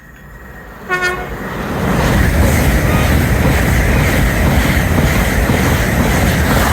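A train horn gives one short toot as a train approaches, then the train passes the platform at speed with a loud, steady rumble.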